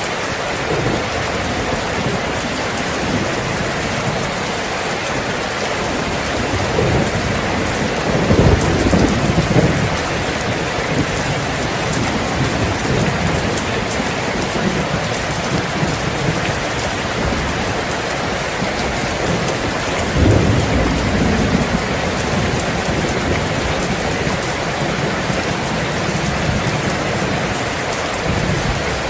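Steady rain falling, with rolls of thunder rumbling twice: a longer one from about seven to ten seconds in, and a shorter one about twenty seconds in.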